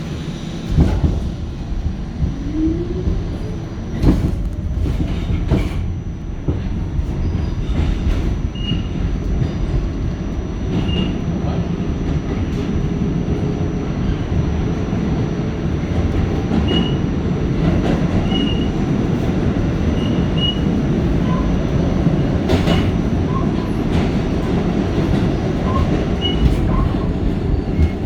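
An R46 subway car running on the rails, heard from inside: a steady low rumble of wheels on track, a short rising whine about two seconds in, sharp clunks over rail joints around four and five seconds in and again near the end, and brief faint squeaks recurring through the second half.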